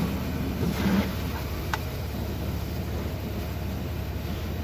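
Semi truck's diesel engine idling steadily, heard from inside the cab, with a couple of light clicks.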